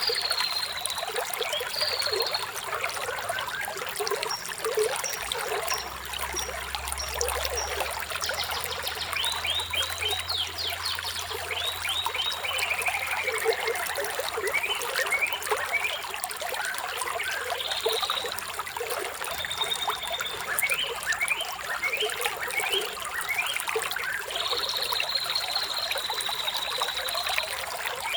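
Running water trickling steadily, with birds chirping over it: many quick downward-sweeping notes, a rapid falling trill in the middle, and a long high whistled note near the end.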